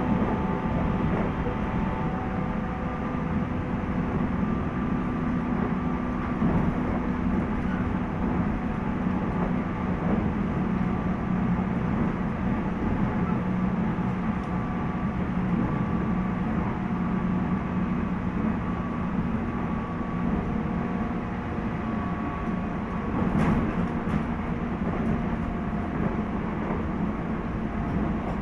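Running noise inside a JR 719 series electric multiple-unit car (KuMoHa 719-1) cruising between stations: a steady hum with thin whining tones over the rumble of the wheels, and a few light clicks of wheels over rail joints, one of them about 23 seconds in. The uploader suspects this car of making an unusual noise.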